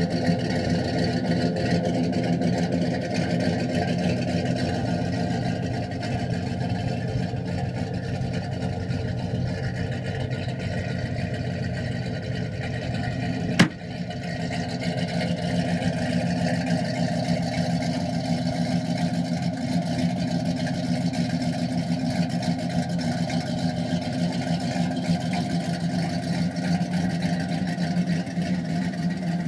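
1968 Chevelle Malibu's engine idling steadily with a lumpy, fluttering beat, heard from around the back of the car. A single sharp click cuts through about halfway.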